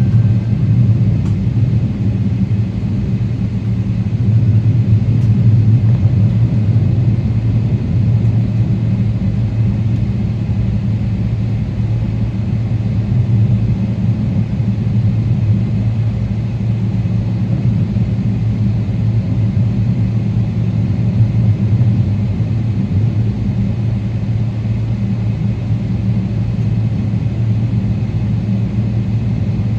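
Steady low drone of a Boeing 777-300ER's GE90 engines heard inside the cabin, an even rumble with a deep hum that holds level throughout.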